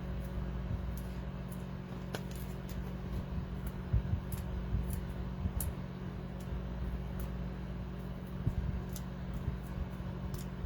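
Scattered small clicks and taps of fingers picking at the paper backing of foam adhesive dimensionals, which are hard to peel off, over a steady low hum.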